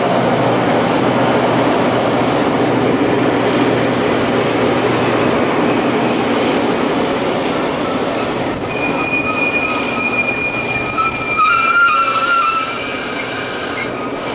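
Metra bilevel commuter coaches rolling past, a steady rumble of steel wheels on rail. About nine seconds in, a high wheel squeal starts and wavers as the cars take the curve through the switches.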